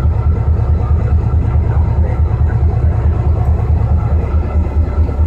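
Diesel locomotive engine idling with a steady, even low throb.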